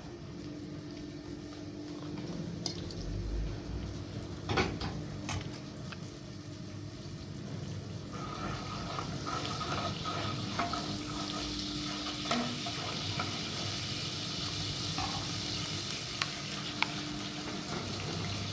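Cooking in a pan: a sizzle that grows louder about eight seconds in, with a few sharp clicks and knocks of utensils.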